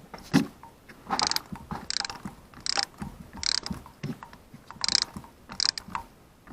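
Ratcheting torque wrench turning a spark plug in short back-and-forth strokes: a burst of ratchet clicks on each return swing, about eight times, a little under a second apart. The plug is being run down toward its torque setting.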